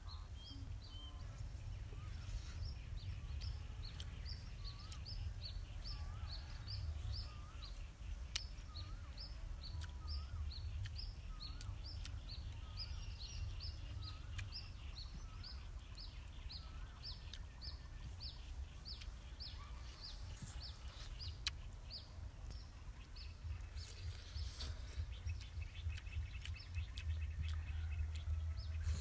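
Outdoor birdsong: a small bird repeats a short high chirp about twice a second, fading out near the end. A second bird answers with lower rising notes about once a second in the first half. A steady low rumble runs underneath.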